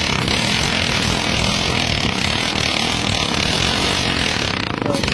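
Motorcycle engine running steadily through a raised exhaust, a continuous rapid firing with a strong hiss on top.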